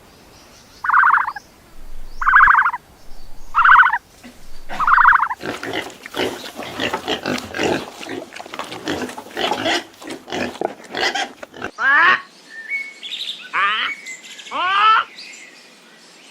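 Animal calls: four short, pulsed calls about a second apart, then several seconds of rapid chattering, then a few sharply falling calls near the end.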